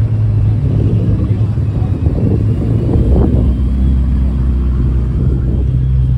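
Car engines running at idle: a steady low rumble whose pitch drops lower about halfway through, with people's voices faintly underneath.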